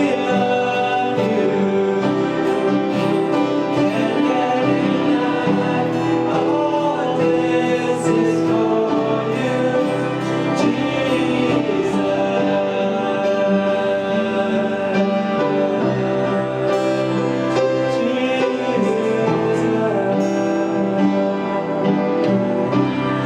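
Worship music played live by instruments, with sustained chords held for a few seconds at a time.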